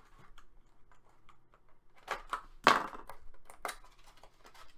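Trading cards and card packs being handled on a table: light rustling and clicking, with a sharp knock about two and a half seconds in.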